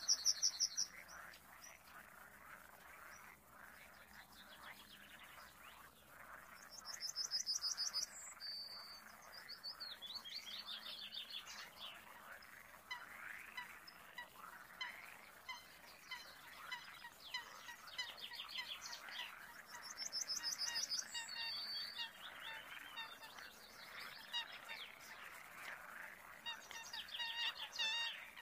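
Wetland wildlife ambience: a high, fast bird trill a little over a second long comes four times, over a steady chorus of small chirping calls from frogs and birds.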